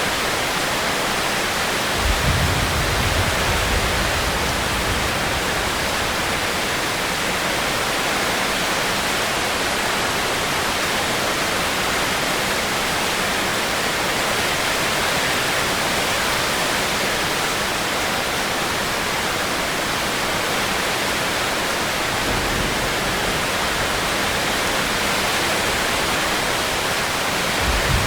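Steady heavy rain falling, an even hiss, with a low rumble joining about two seconds in and again over the last several seconds.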